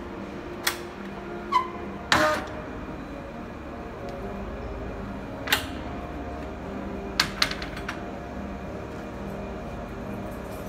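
Steady hum on an underground station platform as a Hokutetsu Asanogawa Line train draws slowly in through the tunnel. Several sharp clicks and clacks come through it: a loud clatter about two seconds in and a quick run of clacks about seven seconds in.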